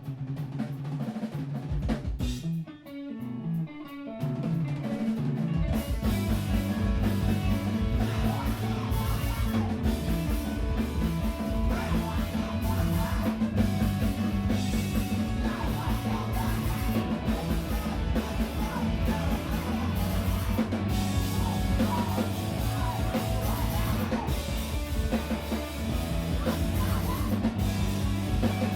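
Live screamo band playing: a few seconds of guitar alone, then drums and the full band come in about five seconds in and play on at full volume.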